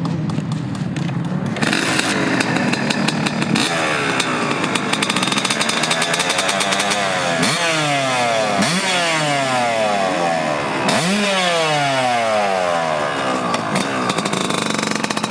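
Highly modified Yamaha YZ250 two-stroke dirt bike engine revving hard. Its pitch repeatedly jumps up sharply and then falls away as the throttle is worked.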